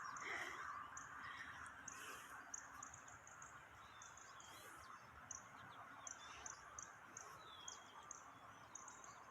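Quiet outdoor ambience with faint, high chirps from small birds, repeating unevenly throughout, and a few short downward-sliding call notes.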